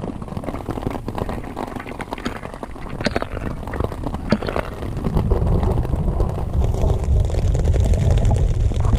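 Heavy rain hitting the fabric of a tent in many small sharp taps. A deep low rumble grows louder about halfway through and keeps going.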